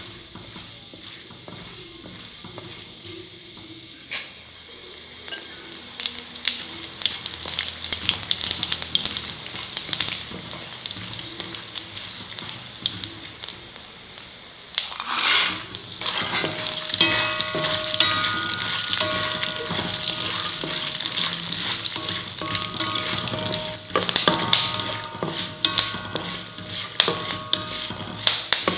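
Dals and coriander seeds frying in hot oil in a brass kadai: a steady crackling sizzle with a spatula scraping and stirring against the metal. About halfway through the sizzle gets clearly louder, and by the end peanuts are roasting in the pan.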